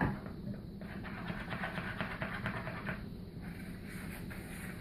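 Sticky snow slime being worked in a bowl: a click, then a run of soft, rapid crackling squelches over a steady low hum.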